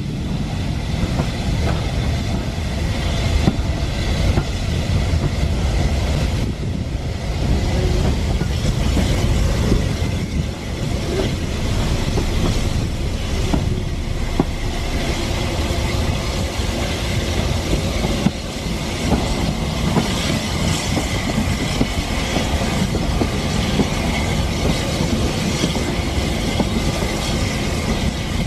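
Vintage railway carriage of a steam-hauled train running along the line, heard from an open window: a steady rumble with the clickety-clack of the wheels over the rail joints.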